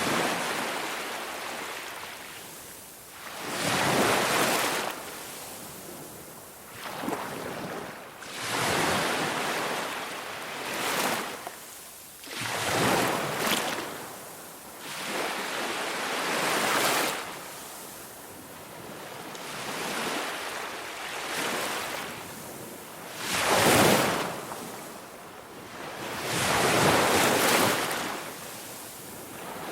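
Sea waves washing in, one swell of rushing surf every two to three seconds, each rising and fading away.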